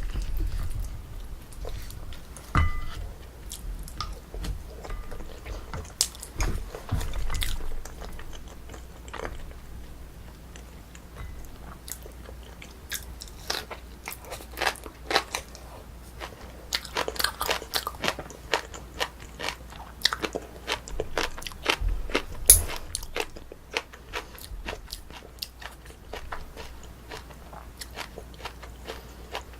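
Close-miked chewing and biting of a braised spicy chicken meal, with irregular wet mouth clicks and soft crunches. A short ringing clink comes about three seconds in, and a sharp louder snap comes about 22 seconds in.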